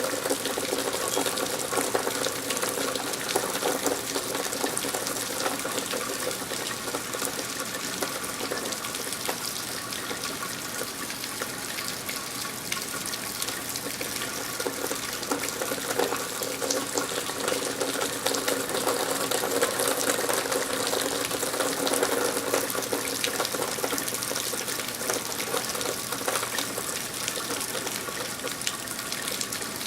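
Steady rain falling, a dense patter of drops with a running-water wash beneath.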